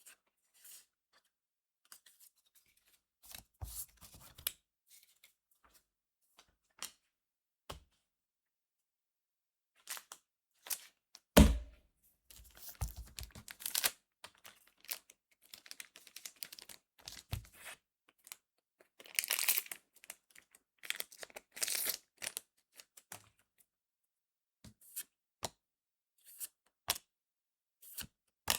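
Trading card booster pack being opened by hand: the wrapper tears and crinkles in two stretches, between light clicks and taps of the cards being handled, with one louder knock about a third of the way in.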